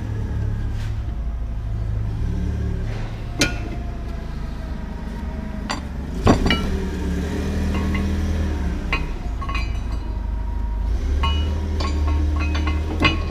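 Metal tools and parts clinking and knocking now and then during a front wheel bearing replacement; several sharp, briefly ringing clinks, the loudest about three and six seconds in. A steady low rumble runs underneath.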